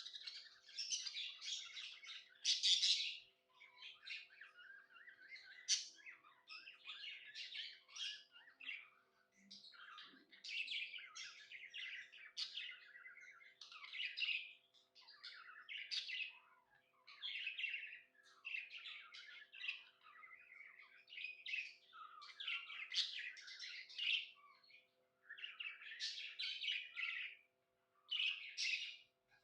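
Budgerigars chirping and warbling in a near-continuous chatter of short, rapid bursts, with brief pauses between phrases. A faint steady hum runs underneath.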